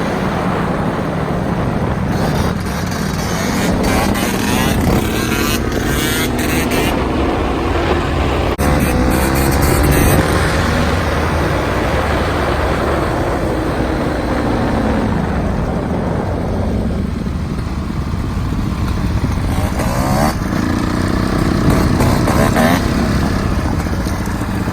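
Two-stroke dirt bike engine being ridden, its revs rising and falling several times.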